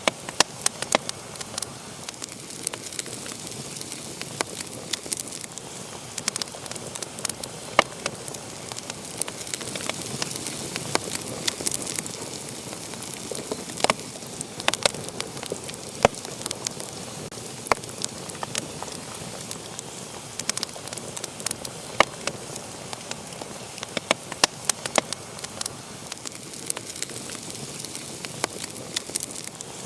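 Wood fire burning in a fireplace, crackling and popping irregularly over a steady soft hiss of flames.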